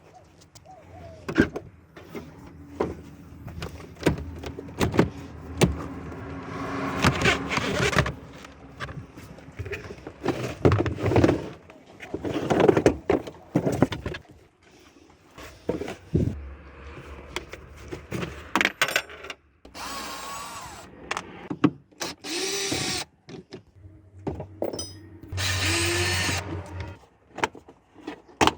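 Mechanic's tool work: scattered clicks and knocks of hand tools and parts, with three short runs of a power tool, each a second or two long, in the second half.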